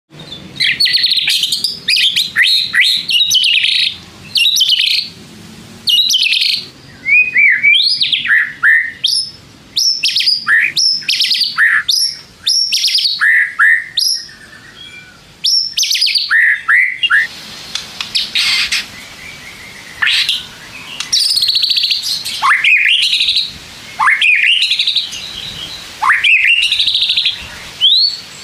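White-rumped shama (murai batu) singing loudly: a rapid string of varied phrases of sweeping whistles, upslurred notes and chattering, with short pauses between bursts. It is played as a lure song to provoke a caged shama to answer.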